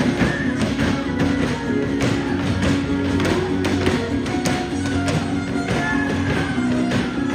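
Son huasteco played live by a trío huasteco: violin melody with slides over strummed jarana and huapanguera, with fast sharp percussive taps keeping the rhythm.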